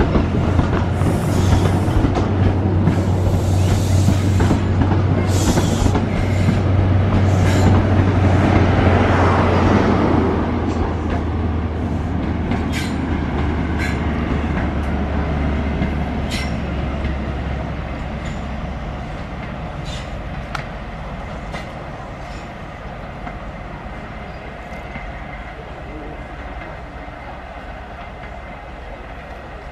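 High Speed Train pulling out and drawing away: the steady drone of its diesel power car with the wheels clicking over rail joints. The sound fades steadily as the train recedes.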